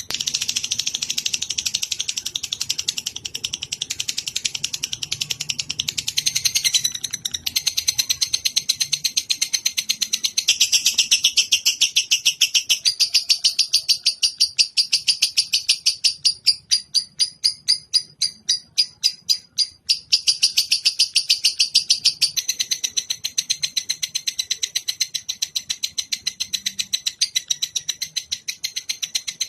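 Lovebird giving its long chattering song (the 'ngekek'): rapid, evenly repeated high chirps without a break, sparser for a few seconds partway through.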